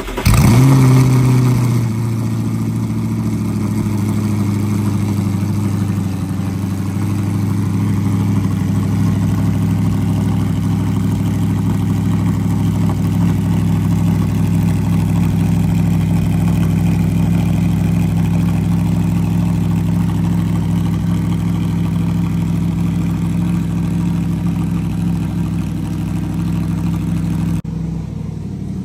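Audi R8's V8 with a full AWE Track exhaust starting up: it catches with a loud flare of revs, then settles within about two seconds into a steady idle.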